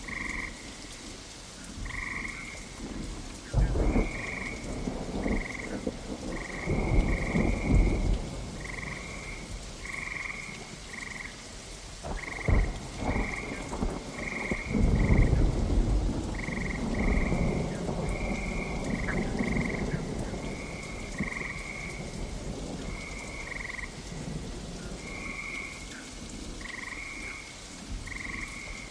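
Steady rain with thunder rumbling several times, loudest in rolls around a quarter and half way through. Through it a frog croaks over and over in short high-pitched notes, about one or two a second.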